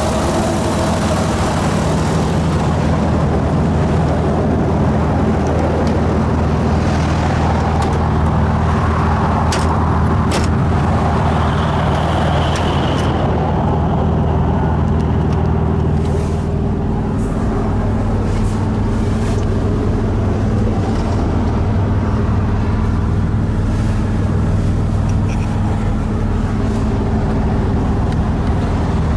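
Toyota Supra (JZA80) turbocharged 2JZ inline-six running steadily through its HKS Silent Hi-Power muffler. Two sharp clicks come about a third of the way in, and the engine note changes about halfway through.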